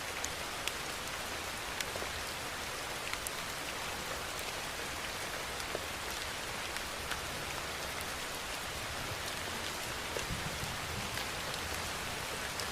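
Steady rain falling as an even hiss, with individual drops ticking sharply here and there.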